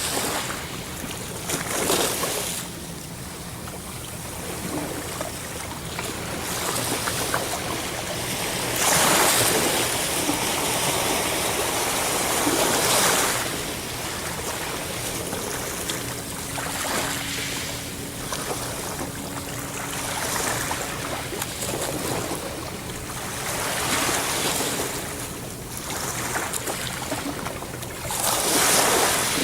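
Sea waves breaking and washing ashore, the surf swelling and ebbing every few seconds, with the biggest surge starting about nine seconds in and another near the end.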